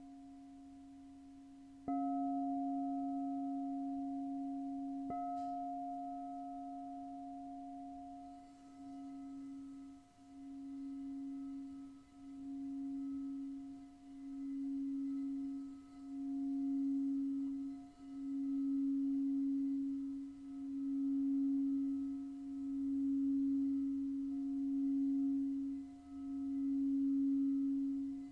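A singing bowl is struck about two seconds in and again about five seconds in, ringing with a steady low tone and fainter higher overtones. From about eight seconds on, its tone swells and fades regularly, roughly every two seconds.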